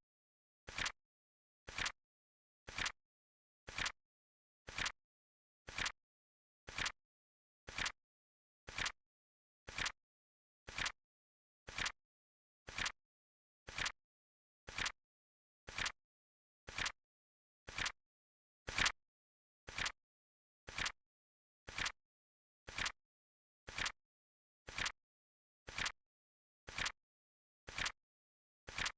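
Flip clock sound effect: short, sharp flap clicks, one each second, with silence between. One click about two-thirds of the way through is a little louder.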